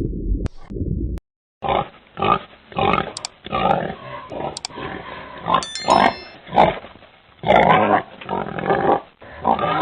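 A low rumbling sound that cuts off about a second in, then a pig calling in a long irregular run of short, loud grunts and squeals.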